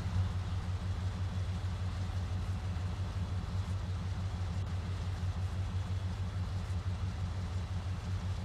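Diesel locomotive engine idling: a steady low rumble with a fast, even pulse.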